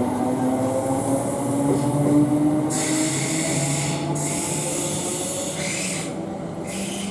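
Class 321 electric multiple unit pulling away, its traction motors whining and slowly rising in pitch over the rumble of wheels on the rail. A high hiss from the wheels comes in about three seconds in and again near the end.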